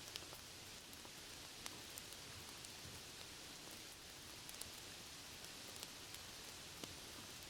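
Steady, faint rain hiss with scattered soft pops and clicks throughout.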